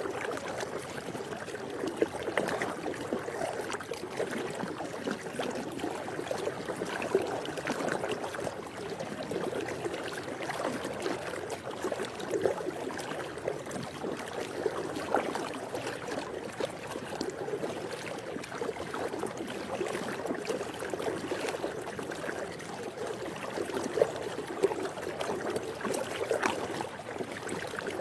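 Swimming pool water moving continuously, a steady mix of gentle splashing and trickling with a few slightly louder splashes here and there.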